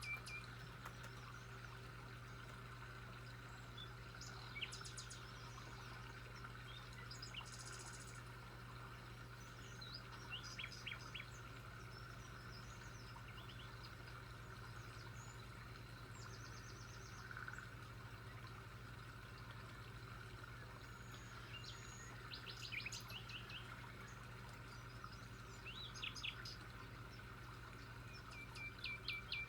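Birds chirping and calling every few seconds, with a phrase of rapid notes ending in a held whistle near the end, over a steady low hum.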